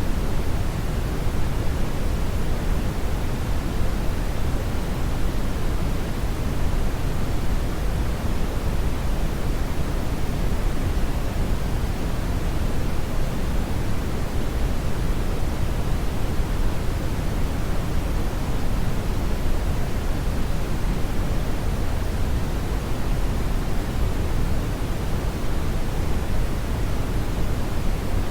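Strong brown noise: a steady, deep rushing hiss with most of its weight in the low end, unchanging throughout.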